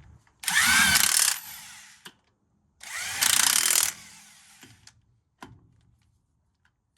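Handheld power tool run twice in bursts of about a second, spinning lug nuts onto a wheel's studs, its motor pitch sweeping as each nut runs down; a small knock follows.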